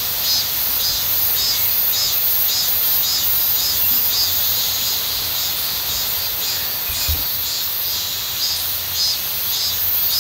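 Chorus of grass insects chirping in a steady pulsing rhythm, about two pulses a second, over a constant high hiss. A single faint low knock about seven seconds in.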